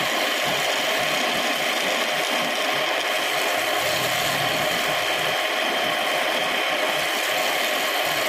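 Home-built wood lathe running steadily, a continuous machine noise with no pauses.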